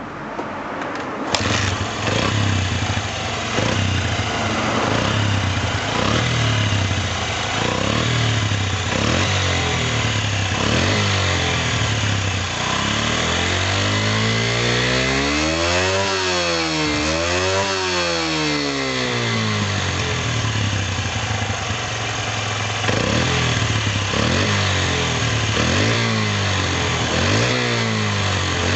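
Honda Ape 50's small single-cylinder four-stroke engine (AC16E) starting about a second in, then idling. About halfway through it is revved up and back down twice before settling back to idle.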